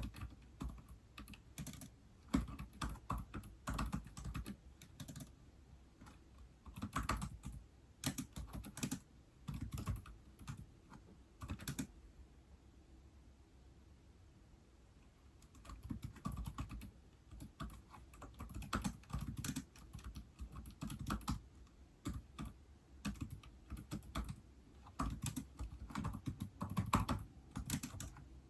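Typing on a keyboard used with an iPad: quick runs of key clicks, stopping for about three seconds near the middle and then going on again.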